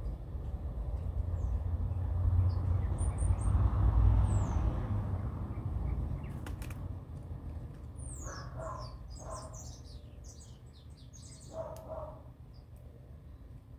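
Small birds chirping: a quick run of high, falling notes in the second half, mixed with a few short lower calls. A low rumble fills the first half.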